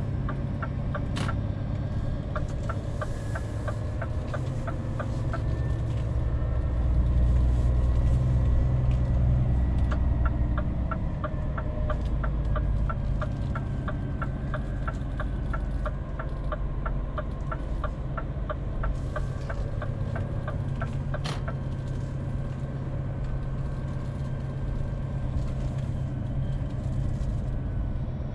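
Scania truck engine running steadily, heard from inside the cab, pulling harder for a few seconds around the middle. Turn-signal indicator ticking at about two ticks a second early on and again for about eleven seconds from the middle, with a sharp click as it stops.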